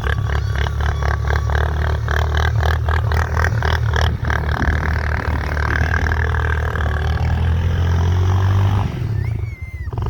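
A four-wheeler's engine runs steadily under load, towing a car hood ridden as a sled, with the hood clattering and scraping over the snow. The noise drops off briefly about nine seconds in, then picks up again.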